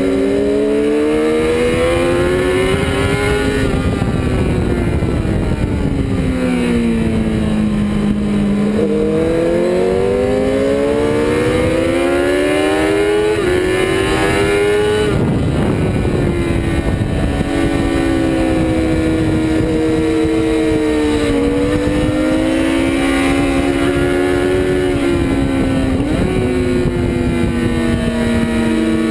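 Honda CBR600's inline-four engine at racing revs, its pitch climbing hard as it accelerates and dropping back under braking and downshifts, over and over through a series of corners, with a steady rush of wind noise.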